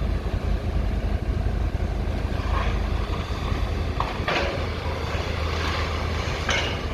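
Heavy demolition machinery running steadily with a low rumble, with a few short noisy clatters through it as the building is broken down.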